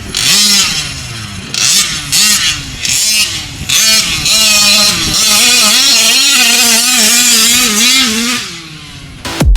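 RC car's small engine revving in repeated quick blips, its note rising and falling, then held at high revs with a wavering pitch before dropping back near the end.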